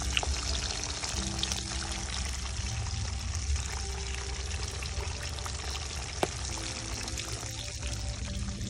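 Food frying in hot oil: a steady sizzle with faint scattered crackles and a sharp pop about six seconds in, over soft background music.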